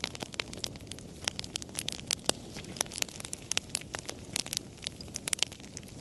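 Wood fire crackling: many sharp, irregular pops and snaps over a steady low hiss of burning.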